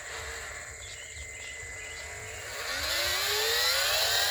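A motor running, then speeding up about two and a half seconds in: its whine rises steadily in pitch and grows louder.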